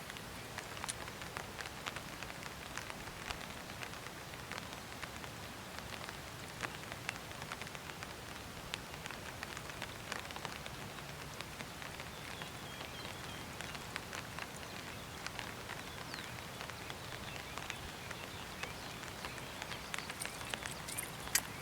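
Light rain falling: an even hiss with many small, scattered drop ticks.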